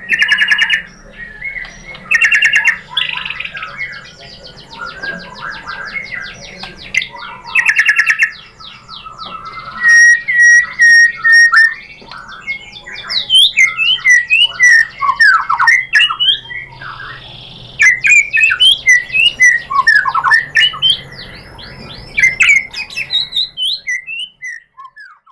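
White-rumped shama (murai batu) singing a long, varied song of rapid trills, harsh chattering phrases and quick sweeping whistles, stopping about a second before the end.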